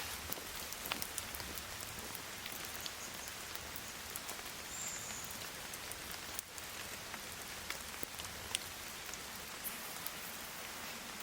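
Steady rain falling on trees, with individual drops ticking sharply on wood and leaves here and there.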